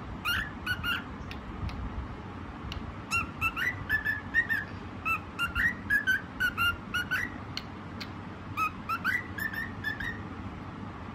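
White cockatiel whistling its song: phrases of short, clear whistled notes, many sliding upward, with pauses between the phrases.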